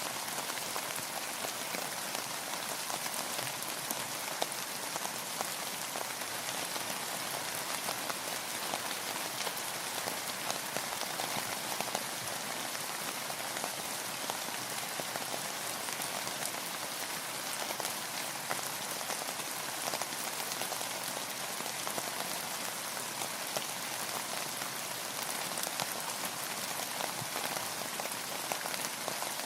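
Steady rainfall: an even hiss of rain with many small drop ticks pattering on a surface.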